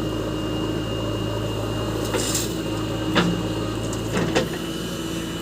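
Backhoe loader's diesel engine running steadily, with a few short knocks and clanks about two, three and four seconds in.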